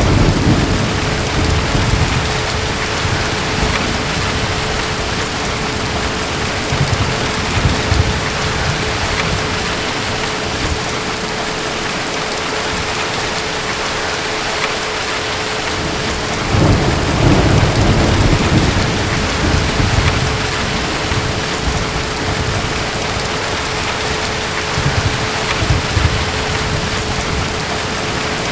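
Heavy, steady rain with distant thunder rumbling in low swells, strongest at the start, about two-thirds of the way in and again near the end. A faint steady hum runs under the rain.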